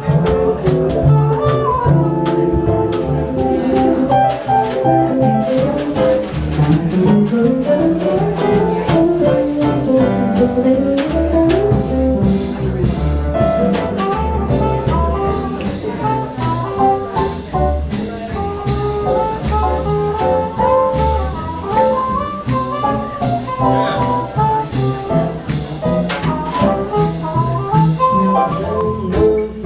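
Live swing band playing an instrumental jazz passage: a horn melody running up and down in quick runs over drum kit and bass.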